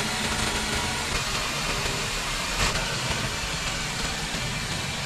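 Subaru flat-four boxer engine idling steadily under an open bonnet, being checked with a mechanic's stethoscope and judged healthy.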